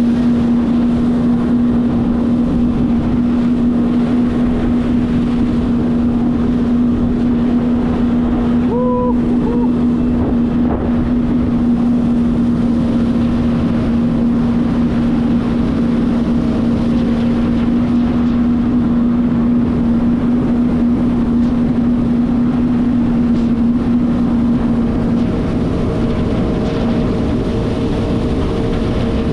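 Jet ski engine running at a steady speed, a constant drone with wind rushing over the microphone. About 25 seconds in, the engine's note shifts as the main tone fades and higher tones come in.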